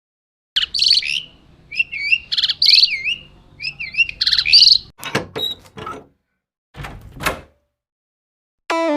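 A songbird chirping in quick, repeated warbling phrases of bending notes for about four seconds, followed by a few sharp knocks. Music starts just before the end.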